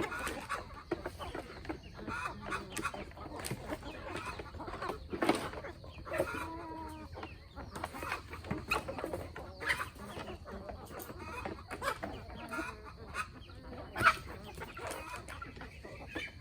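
A flock of chickens clucking, with short calls among many light taps and clicks, and two louder knocks, one about five seconds in and one near the end.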